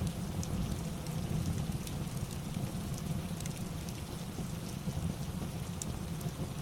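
Steady rain with a deep rumble underneath and scattered faint crackles.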